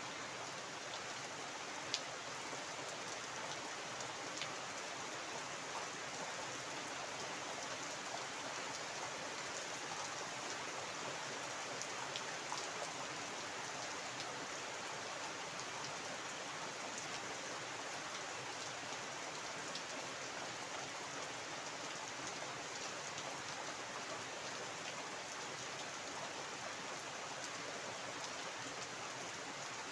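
Heavy rain falling steadily onto a waterlogged yard and standing water: a dense, even hiss with a few sharper drop ticks close by.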